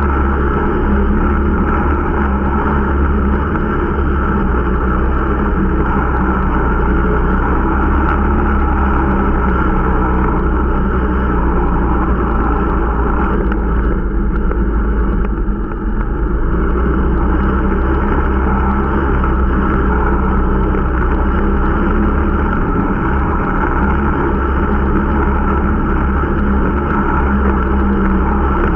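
Irbis Dingo T125 snowmobile's 125 cc single-cylinder engine running steadily, a new machine being run in, with a brief dip in its sound about halfway through.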